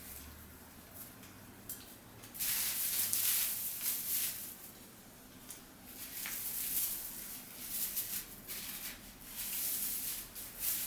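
Rustling of artificial Christmas tree branches being handled, in irregular bursts that grow louder about two seconds in and again from about six seconds.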